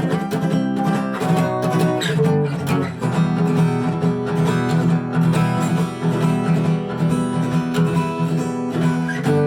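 Acoustic guitar strummed in the fast galloping rhythm, groups of three quick strokes down-up-down repeating evenly over ringing chords.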